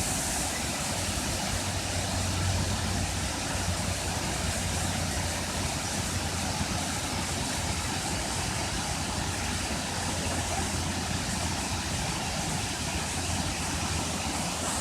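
Brandywine Falls: a steady, even rush of falling water with a low rumble underneath.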